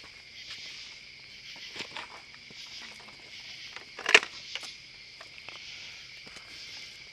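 Steady chirring chorus of crickets and other night insects, with scattered small clicks and rustles and one sharper knock about four seconds in.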